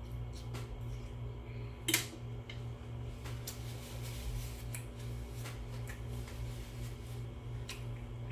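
Steady low hum with a few light clicks and one sharper click about two seconds in.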